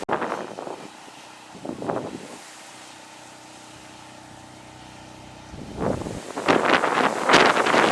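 Wind buffeting the microphone in gusts, loudest in the last two seconds. In the lull between gusts a steady low engine hum is heard.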